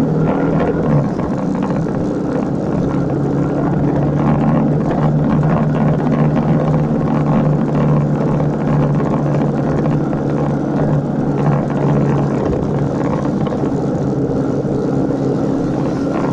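Motorcycle engine running steadily at an even pitch while riding, over a constant rushing noise.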